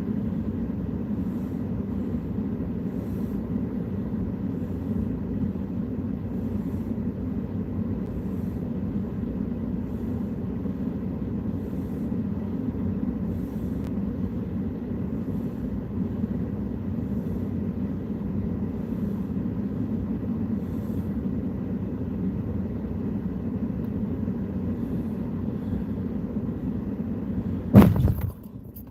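Steady low rumble of a motor vehicle. Near the end a single loud knock, after which the rumble cuts off.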